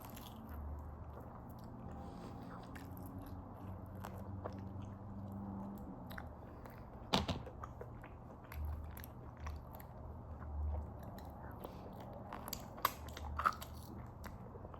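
Close mouth sounds of a person chewing chewy goat meat, with scattered wet clicks and smacks. The loudest click comes about seven seconds in, over a faint steady low hum.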